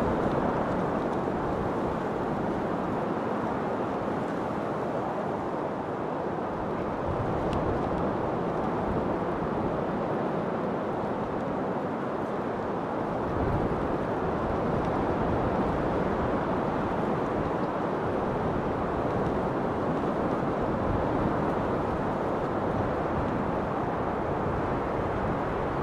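Steady wind blowing, an even low-pitched noise that swells slightly now and then.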